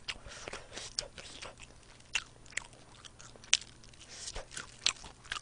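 Fried chicken wing (Kyochon) being bitten and chewed close to a microphone: an irregular series of sharp crunches and smacking chewing clicks.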